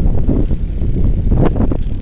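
Wind buffeting the microphone: a loud, uneven low rumble, with a short click about a second and a half in.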